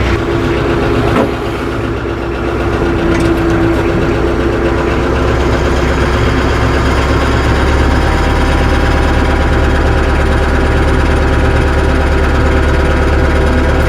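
Tractor engine running steadily, its hum building a little over the first few seconds as the tractor pulls forward, with a single clunk about a second in.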